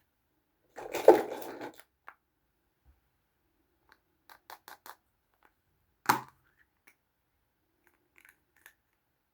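Small plastic toys being handled by hand: a scraping rustle lasting about a second near the start, then a run of light clicks and one sharp plastic click a little past the middle.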